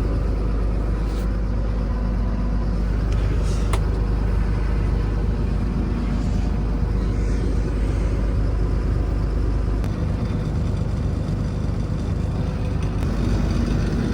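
Steady low rumble of motor vehicles and road noise, the low end changing about ten seconds in.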